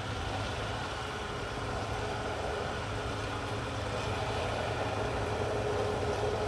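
CAT D6R XL bulldozer's diesel engine running steadily: a low drone with a steady higher tone above it that grows louder in the second half.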